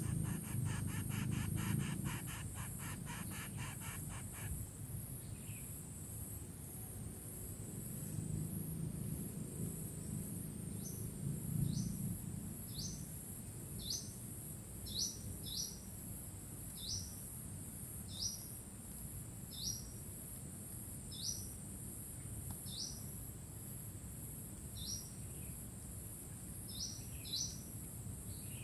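A small bird repeatedly giving short, upward-sweeping chirps, about one every second or so, starting around a third of the way in. Under it runs a steady high insect drone. A rapid buzzy trill is heard in the first few seconds.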